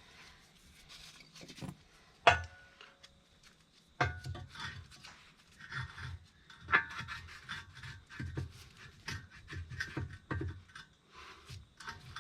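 Steel parts clanking and being handled: one sharp metal clank with a short ring about two seconds in, then a run of irregular knocks and scraping of metal on metal.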